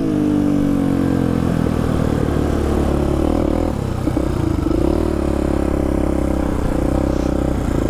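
Polaris Predator quad's single-cylinder engine running, its pitch falling as the throttle eases off at the start, then holding fairly steady with small rises and falls in revs and a brief dip about four seconds in.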